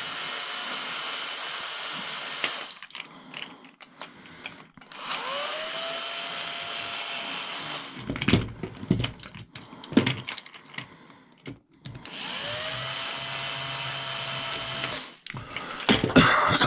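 A power drill runs three times, each time spinning up with a rising whine to a steady speed for about three seconds, as it takes parts off scrap for salvage. Short clatter and knocks of metal parts being handled come between the second and third runs.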